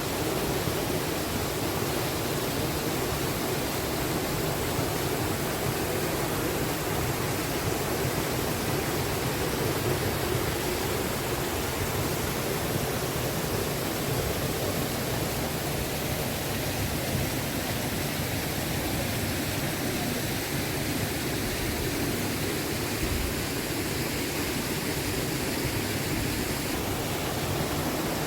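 Steady rushing of flowing water, a stream or falls, close by.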